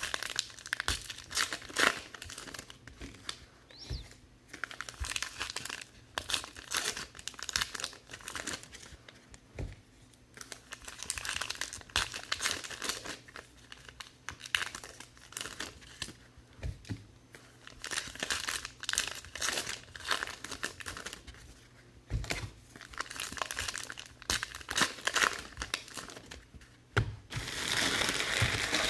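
Trading-card pack wrappers crinkling and tearing as packs are ripped open, in irregular bursts with short pauses between them. Near the end the crinkling becomes continuous and dense.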